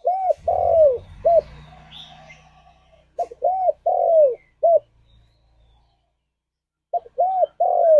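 Spotted dove cooing: three phrases of about four arched coos each, the longest coo in each phrase sliding down in pitch at its end.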